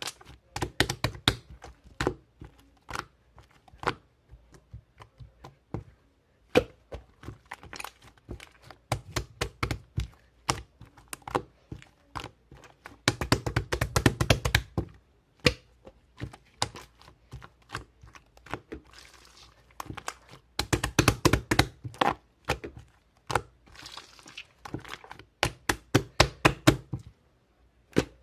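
Many sharp clicks and taps, some coming in quick busy clusters and some spaced apart, with a little crinkling.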